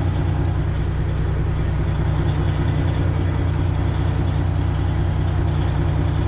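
Detroit Diesel 12.7-litre engine of a Freightliner Classic XL semi running steadily at low, idle-level speed, with no revving, during slow backing manoeuvres.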